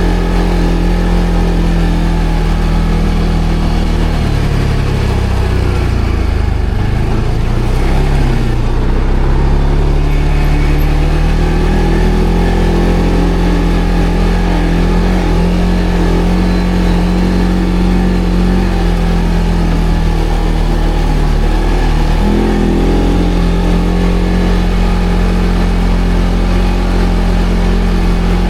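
ATV engine running steadily. Its pitch sags about four seconds in, climbs back up a few seconds later, and dips briefly again near the end.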